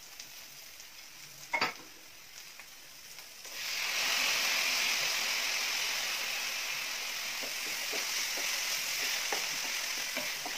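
Chopped onion and ginger-garlic frying quietly in coconut oil in a pan, with a single knock about one and a half seconds in. About three and a half seconds in, chopped tomatoes go into the hot oil and a loud, steady sizzle starts, with the light scrape of a wooden spatula stirring.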